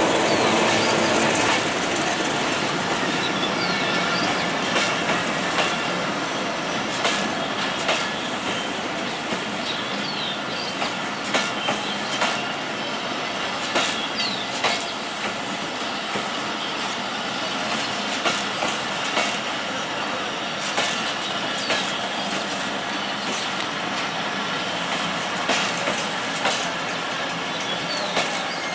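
Broad-gauge passenger train coaches rolling past as the train pulls into a station, their wheels clicking over the rail joints in regular pairs and triplets over a steady rumble, with a few short wheel squeals.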